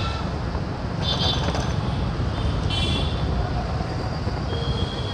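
Riding on a motorcycle through city traffic: a steady low rumble of engine and wind on the microphone. Short high-pitched toots that sound like vehicle horns come about a second in and again near three seconds, and a steady horn-like tone starts near the end.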